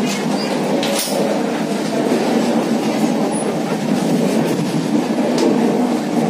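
A moving express train heard from inside a sleeper coach near the door: the steady rumble of wheels on the track, with a sharp knock about a second in and a fainter one later.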